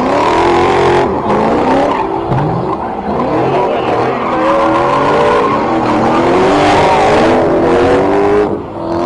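Car engine revving hard, its pitch climbing and falling several times over a loud rushing hiss. The sound drops away briefly near the end.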